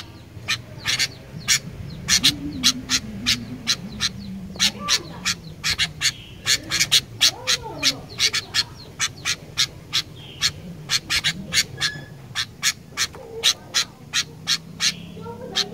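Sooty-headed bulbul (kutilang) giving a fast, unbroken run of short, sharp call notes, about three or four a second, with fainter low wavering sounds beneath.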